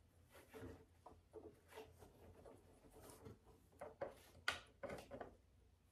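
Faint rustling and small irregular clicks of wiring and plastic parts being handled, with a few slightly sharper ticks about four and a half seconds in.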